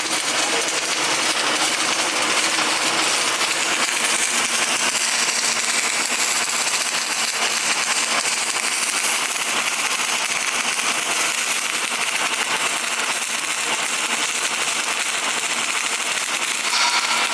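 Welding arc crackling steadily and densely, a continuous frying, spitting noise with a faint steady hum beneath it.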